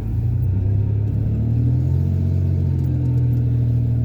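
Truck engine and road noise while driving at low speed: a steady low hum, its note rising a little about a second and a half in.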